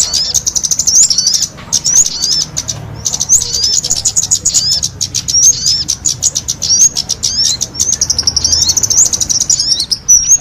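Kemade and sogon songbirds singing together in full, lively song: a dense, rapid stream of high chirps and short rising whistles, many per second, with no pause.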